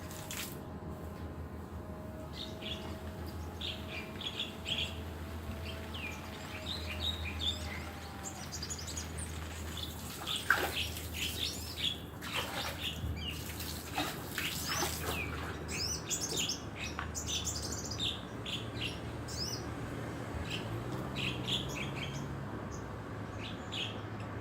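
A parrot bathing: many short chirps, with a few louder bursts of wing-flapping and splashing, the loudest about ten seconds in, over a steady low hum.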